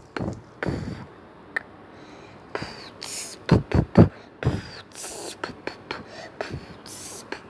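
A person beatboxing: deep kick-like thumps from the mouth mixed with short hissing snare-like bursts, in a loose, uneven rhythm, loudest about four seconds in.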